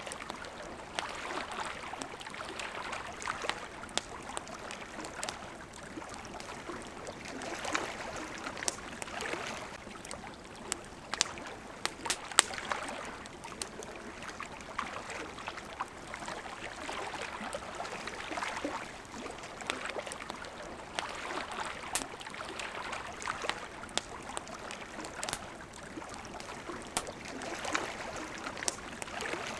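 Campfire crackling with scattered sharp pops, one louder pop about twelve seconds in, over small waves lapping that swell and fade every few seconds.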